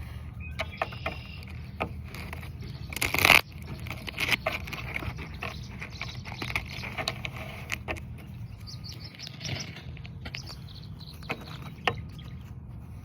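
Tarot cards being shuffled and handled: irregular clicks and scrapes, with one louder rising rush of card noise about three seconds in that stops sharply.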